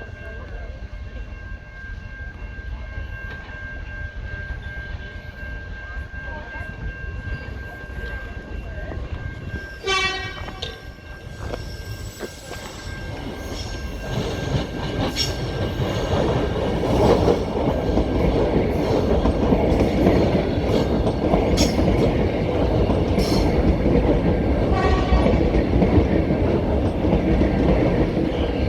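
Electric suburban passenger train approaching and running through the station, the last service before the line closes. It sounds its horn briefly about ten seconds in and again near the end. Its rumble and wheel clatter build up loudly from the middle on.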